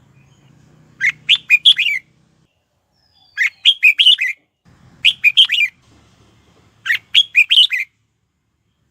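Red-whiskered bulbul singing: four short, loud phrases about two seconds apart, each a quick run of several whistled notes.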